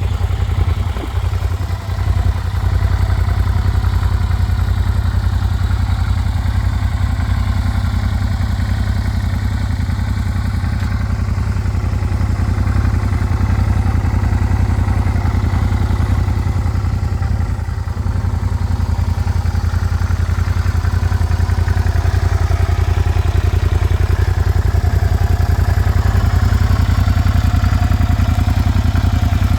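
A 2011 Suzuki SV650S's 645 cc V-twin idling steadily, warming up after a cold start.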